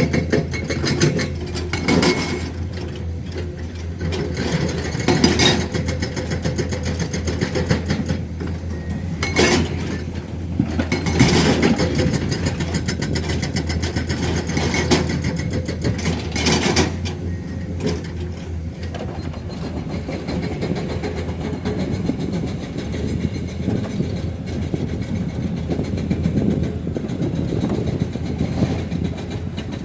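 Heavy diesel engine running steadily at low revs, with a handful of sharp bangs of limestone dropping into a steel dump-truck bed during loading.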